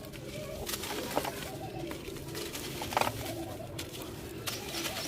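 Dry, dusty crumbly material being crushed and crumbled by hand, giving crisp crunches a few times, the sharpest about three seconds in. A low cooing sound runs underneath.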